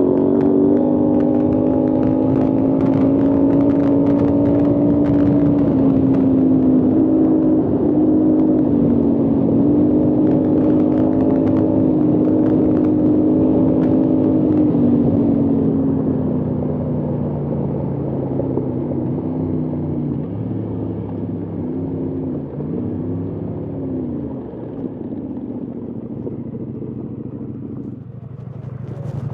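Adventure motorcycle engine running at steady high revs for about fifteen seconds, then easing off. The pitch rises and falls several times as the throttle is worked, and the engine settles at lower revs near the end.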